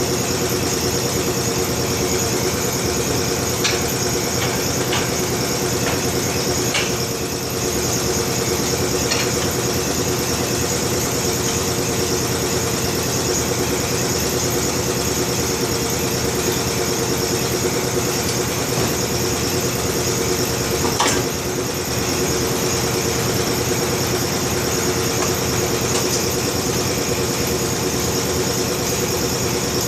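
Steady machine running noise with a hum, unbroken throughout, with a few sharp clicks and knocks from tire work on the changer, the loudest about 21 seconds in.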